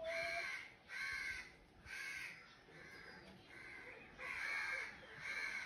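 A bird giving a run of about six harsh, caw-like calls, each around half a second long and evenly spaced, the longest about four seconds in.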